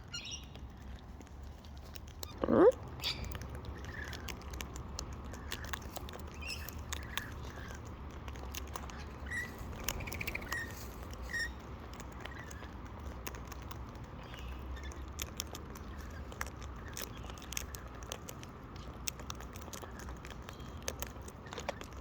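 Wild parrots cracking and husking seed close by: a steady run of small beak clicks and crunches, with one short rising call about two and a half seconds in and a few soft chirps later.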